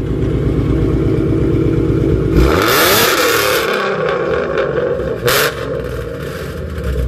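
A car engine with a loud aftermarket exhaust idles with a pulsing note. It is revved up about two and a half seconds in, the pitch rising and the exhaust getting loud for about a second. It settles back, with a short sharp burst near five seconds.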